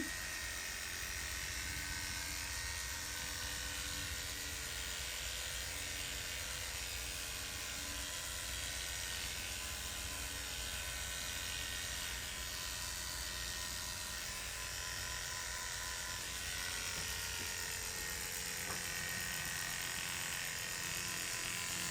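Electric hair clippers buzzing steadily as they shave the scalp short ahead of FUE hair transplant graft extraction.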